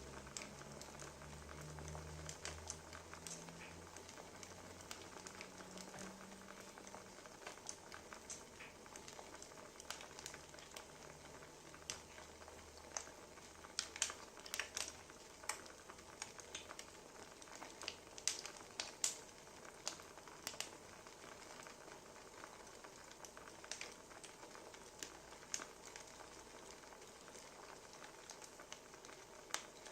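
Wood fire crackling: irregular sharp pops over a steady soft hiss, with a run of louder pops midway. A faint low hum fades out in the first half.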